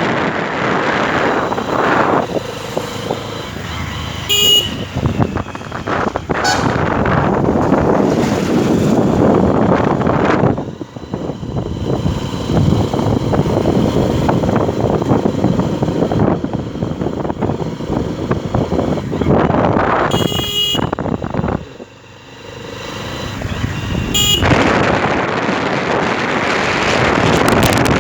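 Wind and road noise rushing past a microphone on a moving motorcycle, with brief blasts of vehicle horns about four seconds in, around twenty seconds and again around twenty-four seconds.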